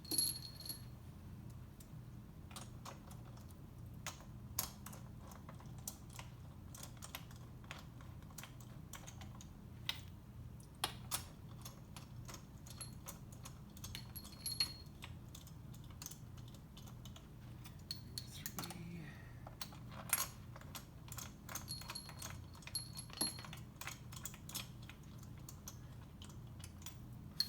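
Irregular sharp metal clicks and clinks of bolts being handled and started into the bolt holes of a Mercury Sport Jet pump case, some with a short ringing tink, over a low steady hum.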